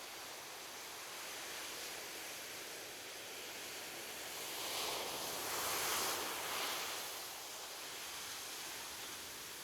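Gentle ocean waves washing on a beach: a steady hiss of surf, with one wave swelling and breaking about five seconds in, then easing back.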